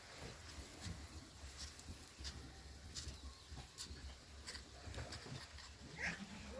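Faint animal sounds over a low rumble, with one brief call near the end that drops in pitch.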